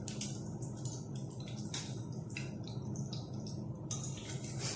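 French toast (egg-and-milk-soaked bread) sizzling in a little oil in a frying pan, with irregular crackling pops over a steady low hum.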